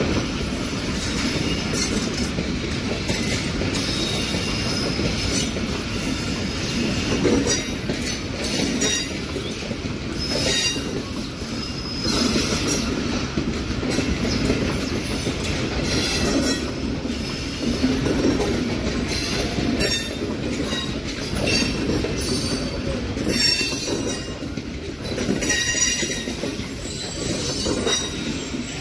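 Pakistan Railways passenger coaches of an arriving train rolling past on the rails, with a steady rumble of wheels on track. Repeated short, high wheel squeals sound every second or two over it.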